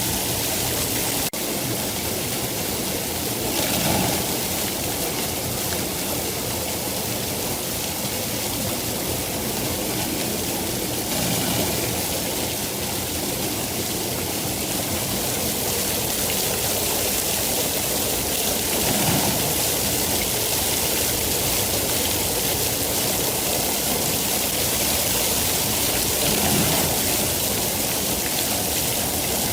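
Steady rain falling, an even hiss with mild swells every several seconds and a brief dropout about a second in.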